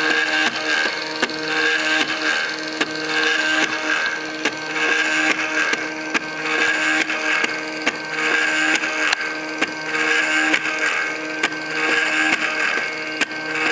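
MakerBot 3D printer running a print, its stepper motors whining in held tones that shift pitch every second or so as the head moves, with frequent sharp clicks.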